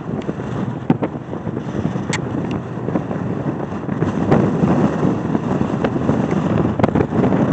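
Wind buffeting the microphone: a steady, rough rushing that swells and dips, with a few faint clicks.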